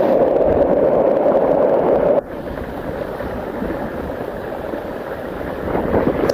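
Steady rush of flowing floodwater, which drops abruptly to a lower level about two seconds in.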